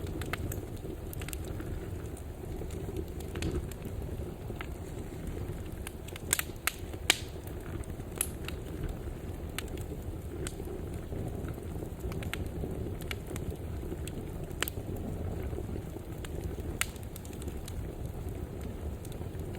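A wood fire burning in a fireplace: a steady low rumble of flames with scattered sharp pops and crackles, a few louder pops about six to seven seconds in.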